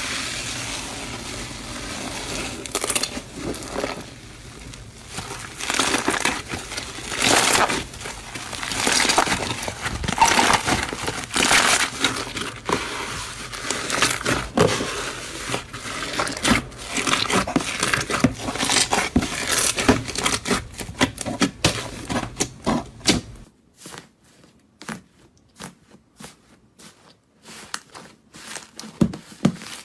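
Something crunchy being crushed and crumbled by hand in irregular strokes. About 23 seconds in it cuts to a quieter run of sharp separate crackles and crinkles.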